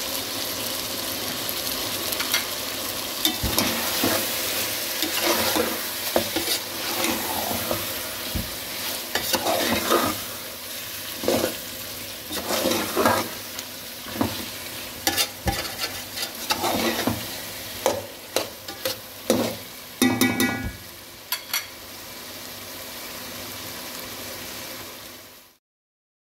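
Food frying and sizzling in oil in a cooking pot while a spoon stirs it, scraping and clattering against the metal at irregular intervals. Near the end the stirring stops, leaving only the sizzle, which cuts off suddenly.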